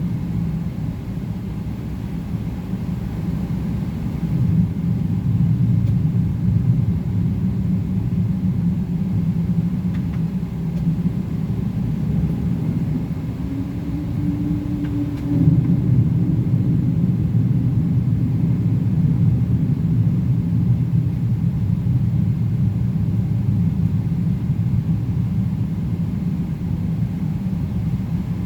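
Boeing 777-300ER jet noise heard inside the forward cabin during takeoff and climb: a steady low rumble, with a faint tone rising and falling near the middle and the rumble growing louder about halfway through.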